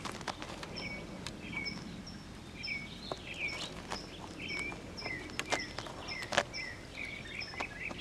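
A bird calling over and over, a short high note then a lower slurred note, repeated about every three-quarters of a second. A few sharp clicks from netting being handled.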